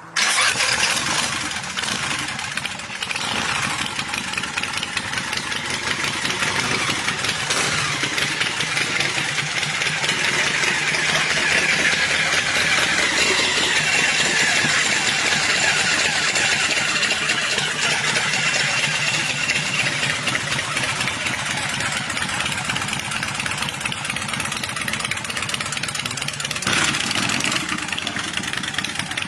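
2006 West Coast Choppers CFL custom chopper's engine running, loud and steady, cutting in abruptly.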